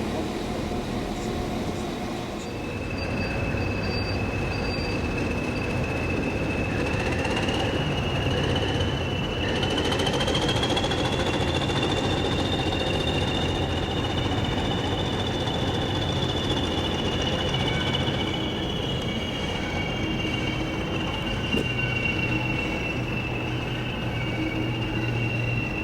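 A train running slowly through the station, with a steady low rumble. A long, high-pitched squeal starts a couple of seconds in, rises slightly, then slowly falls away.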